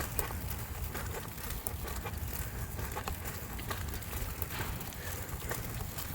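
Wind rumbling on the microphone during a snow storm, with many scattered sharp ticks over it.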